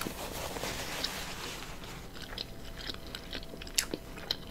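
Close-miked chewing and wet mouth clicks of a person eating a mouthful of Philly cheesesteak omelet, with a soft rustle at the start and a sharper click a little before the end.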